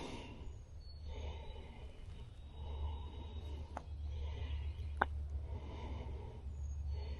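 A person breathing heavily close to the microphone in slow, drawn-out breaths over a steady low rumble, with two sharp clicks about four and five seconds in.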